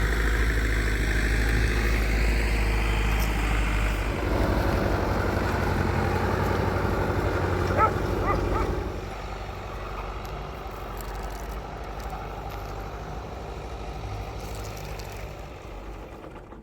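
A motor vehicle engine running steadily, with a brief high squeal about eight seconds in. It grows quieter soon after and fades away near the end.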